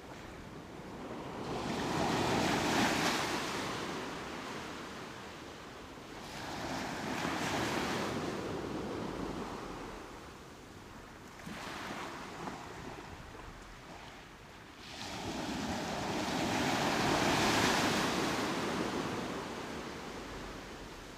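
Ocean surf: waves breaking and washing up the beach, a rushing hiss that swells and fades four times, about every five seconds, the first and last surges the loudest.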